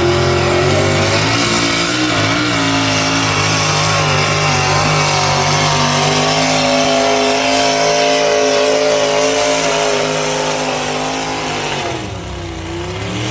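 Pulling tractor's engine running flat out under load during a pull, its pitch held high and steady. About twelve seconds in the pitch drops as the run ends, then picks up briefly again.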